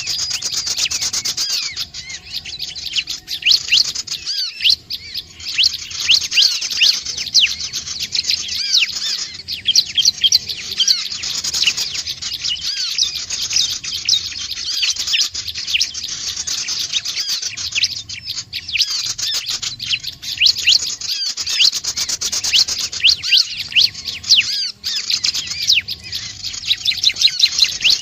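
Bar-winged prinia (ciblek) calling: fast, unbroken runs of high, sharp chirps in phrases of several seconds, separated by short breaks.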